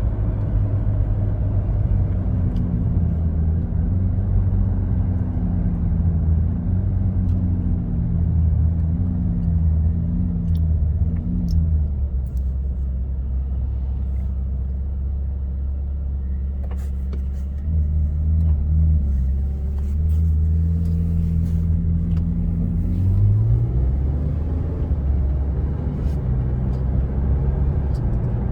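Ferrari 458's V8 engine running, its pitch rising and falling and settling to a steady low drone about midway. Faint scattered clicks and knocks are heard over it, the marble-like knocking that comes from the car when the steering wheel is turned.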